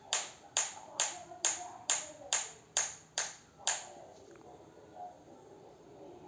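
Hand claps in a steady rhythm, about two a second, nine in a row, stopping about four seconds in.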